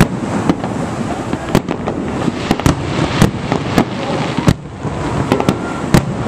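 Aerial fireworks shells bursting: a dozen or so sharp bangs at irregular intervals over a continuous crackle and rumble.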